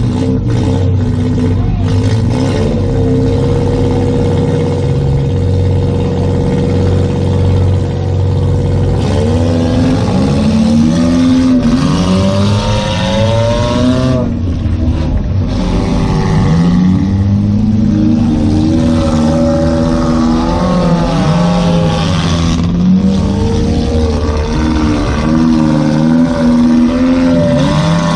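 Demolition derby car's engine heard from inside the cabin, running at a steady pitch at first, then revving up and down repeatedly from about nine seconds in as the car is driven.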